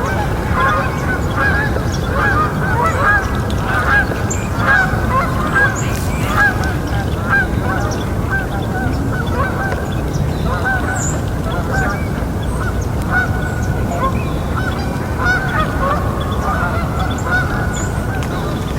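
A flock of birds calling continuously, many short overlapping calls over a steady low background noise.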